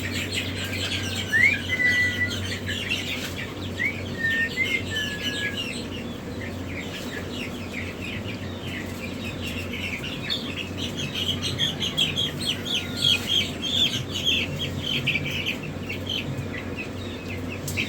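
A crowd of chicks peeping together in a dense, rapid chatter of short high chirps, with a few longer, clear whistled calls in the first few seconds. A steady low hum runs underneath.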